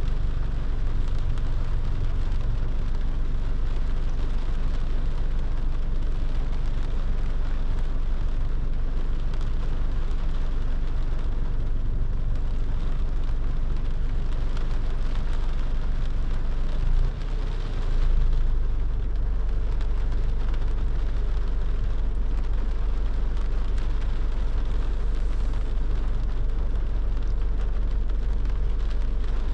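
A car driving in the rain: a steady low rumble of road and engine under an even hiss of rain, briefly dropping in level about halfway through.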